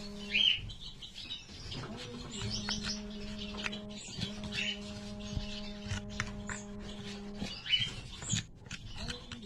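Small cage birds chirping in short repeated calls over a steady electrical hum that cuts out and restarts a few times, with scattered light clicks.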